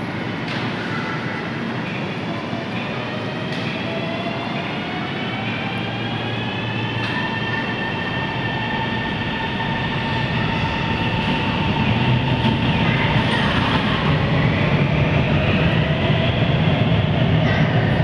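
Shenzhen Metro Type A train (CRRC Sifang) pulling away. Its traction motors whine upward in pitch in stages as it gathers speed, and the running noise grows steadily louder.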